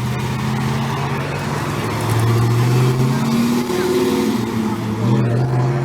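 A departing car's engine revving and pulling away, its pitch climbing about two seconds in, easing off near the end and climbing again.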